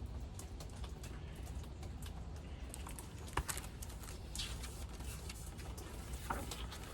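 Quiet room tone with a low steady hum and scattered faint clicks and taps, one slightly sharper click about three and a half seconds in.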